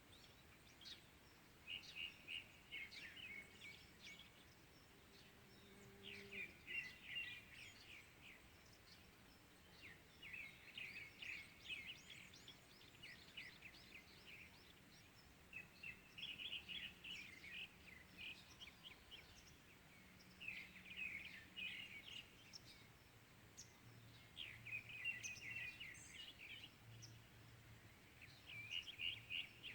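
Songbirds singing faintly in the morning: short phrases of quick, high chirps that come again every few seconds.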